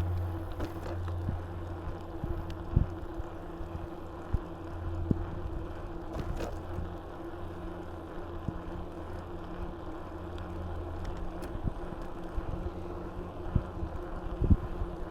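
Mountain bike rolling along: a steady low hum from the tyres, with scattered knocks and rattles over bumps and a few louder thumps near the end. Wind rushes on the action camera's microphone.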